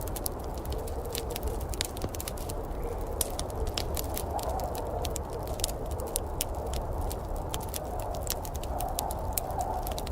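Wood fire crackling in a fireplace, with many irregular sharp pops and snaps over a steady low rumbling noise.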